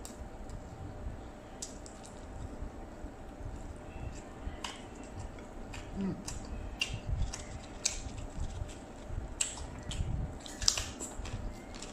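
Close-up eating sounds: wet chewing and squishing of fried rice vermicelli and jengkol eaten by hand. From about nine seconds in come sharp crisp crunches as a fried keropok cracker is bitten.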